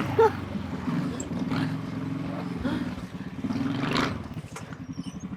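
Go-kart's 420cc Predator single-cylinder engine idling steadily, with a short knock about four seconds in.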